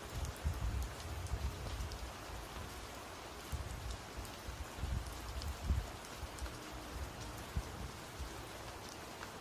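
Steady rain falling in a thunderstorm, with intermittent low thumps and rumbles through the first six seconds or so.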